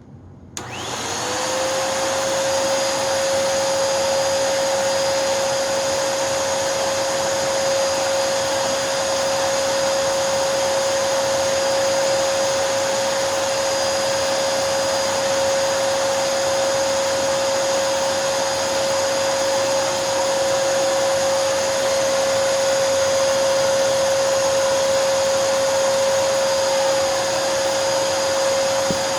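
Hoover NanoLite upright vacuum's motor switched on while sealed to an airflow test box with the filter in. It spins up within about a second to a steady whine, with its exhaust air blowing across the microphones like a windstorm.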